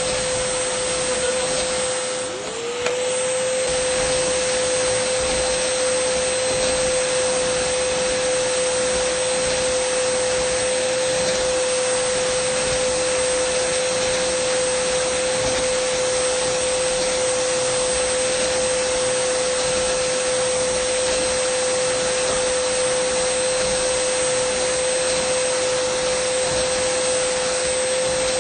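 Dyson vacuum cleaner motor running with a steady whine over a rushing hiss of air. About two to three seconds in, the sound briefly drops and the whine sags in pitch, then glides back up to its steady note.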